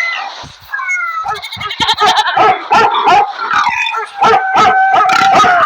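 A dog yipping and whining in quick, high-pitched calls, ending in one long, steady whine.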